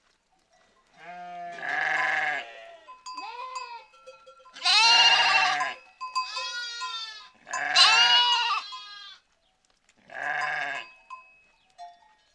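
Sheep or goat flock bleating: about seven separate calls, several voices, each under a second long with short gaps between, the loudest about halfway through.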